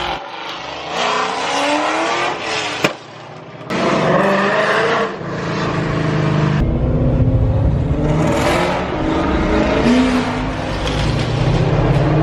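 A 2020 Shelby GT500's supercharged 5.2-litre V8 revving, its pitch climbing over the first few seconds. A sharp click comes near three seconds in and the sound briefly drops, then the engine comes back strong and keeps running at high revs.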